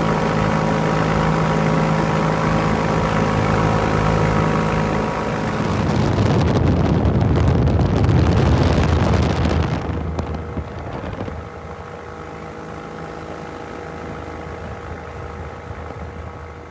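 Rotax 582 two-stroke twin engine of a Corsario MKI amphibious ultralight running steadily at a constant pitch. About five seconds in, a louder rushing noise rises over the engine. Near ten seconds it drops back to a quieter, steady engine note.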